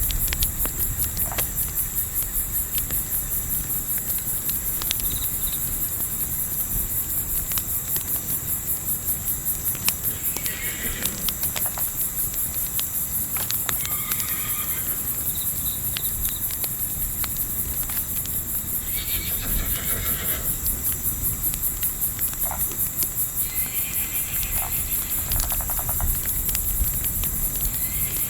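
Night ambience: a steady, rapidly pulsing chorus of crickets over a low rumble, with the scattered sharp pops of a crackling campfire. A few brief animal calls come through, around ten seconds in, near the middle and toward the end.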